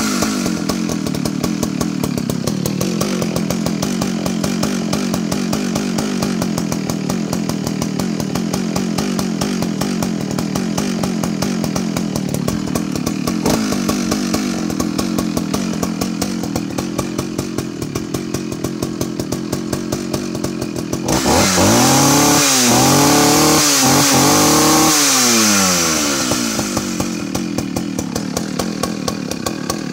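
Partner R16 vintage 55cc two-stroke chainsaw idling steadily from a cold start. A little over twenty seconds in it is revved hard for about four seconds, the pitch wavering up and down, then it drops back to idle.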